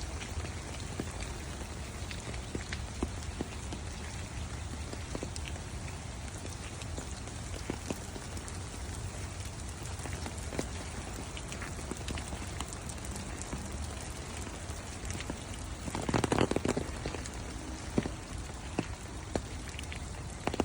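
Steady rain falling, with scattered individual drops tapping close by. About three-quarters of the way through comes a louder, short sound lasting under a second.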